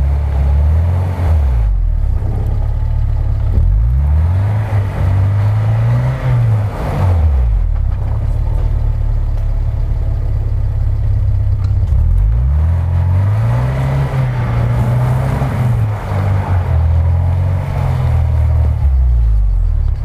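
Off-road vehicle engine revving hard and dropping back, over and over, rising and falling in pitch several times.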